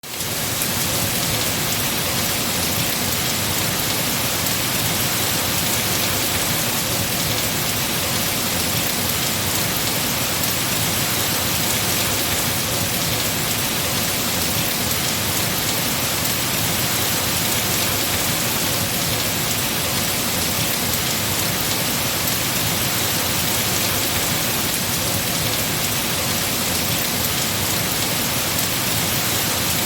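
Heavy rain falling on trees, a dense, steady hiss of drops on leaves that fades up from silence in the first moment.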